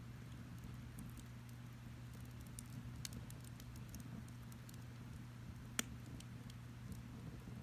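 Wood fire crackling faintly, with scattered small pops and one sharper pop about six seconds in, over a steady low hum.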